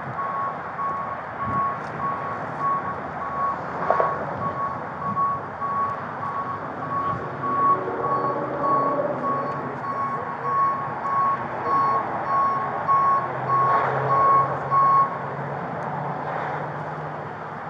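A vehicle's reversing alarm beeping at a steady pace of about two beeps a second, stopping about fifteen seconds in, with an engine running underneath.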